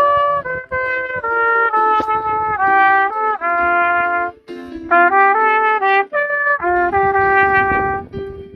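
Trumpet playing a melody of held notes, phrase after phrase, with a short break in the middle.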